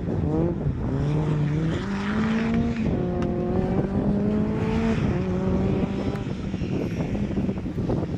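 Mitsubishi Lancer Evolution rally car's turbocharged four-cylinder engine revving hard between gymkhana obstacles, its pitch climbing and dropping back again and again with throttle bursts and gear changes. About six seconds in the engine fades and wind noise on the microphone takes over.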